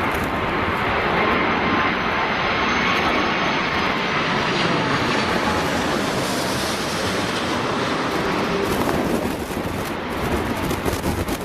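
Jet airliner engines running loud as the aircraft passes low, with a faint whine that drifts slowly in pitch. Wind buffets the microphone near the end.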